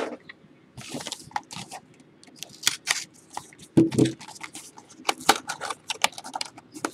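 Football trading cards and foil packs being handled: a quick run of crisp clicks, snaps and rustles of card stock and wrappers, with a brief low murmur about four seconds in.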